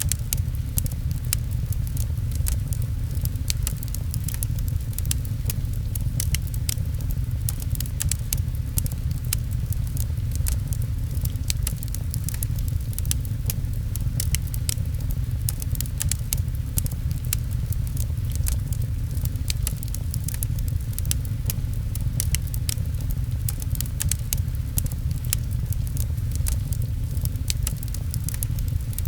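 Wood fire crackling with frequent sharp pops over a steady low rumble, mixed with rain patter on a window.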